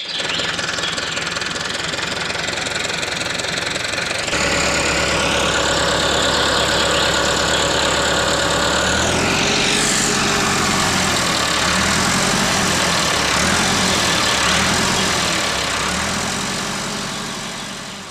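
An engine running steadily, rising and falling in pitch about a third of the way in, then settling into a pulsing low beat and fading away near the end.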